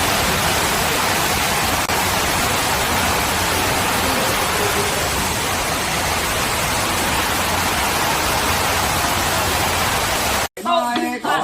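A steady, even hiss that cuts off suddenly about ten and a half seconds in.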